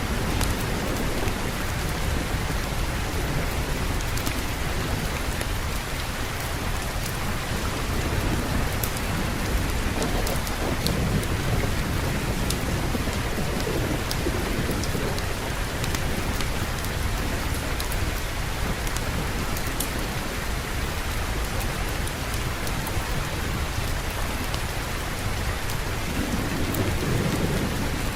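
Steady heavy rain with low rolls of distant thunder, one swelling about a third of the way in and another near the end.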